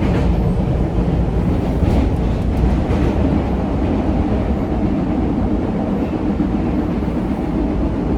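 MBTA Red Line subway car running through a tunnel, heard from inside the car: a steady, loud low rumble of wheels and running gear, with a few faint clicks about two to three seconds in.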